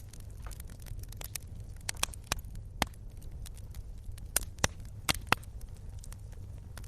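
Wood fire crackling, with irregular sharp pops of varying loudness, a few of them loud, over a steady low rumble of the burning.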